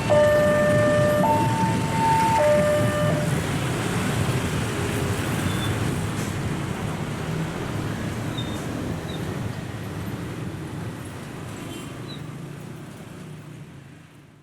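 Train running with a steady low rumble that slowly fades away. For the first three seconds a two-tone horn sounds over it, switching between a low and a high note about once a second.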